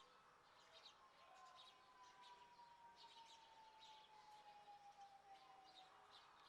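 Very faint birds chirping, with one long steady tone that slowly falls in pitch across most of the stretch.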